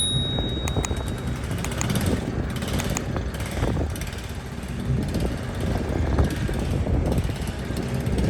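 Heavy diesel mining machinery running: the engines of a large hydraulic excavator and haul trucks give a steady low rumble, with uneven rattling and knocking through it.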